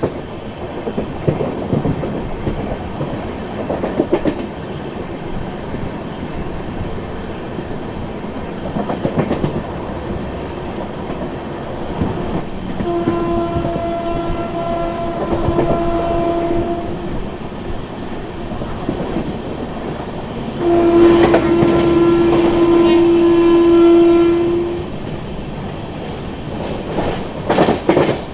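Express train running at speed, heard from an open coach doorway, wheels clattering over the rail joints. A single-note locomotive horn sounds for about four seconds near the middle, then again louder for about four seconds later on. A quick run of clicks near the end is the wheels crossing points.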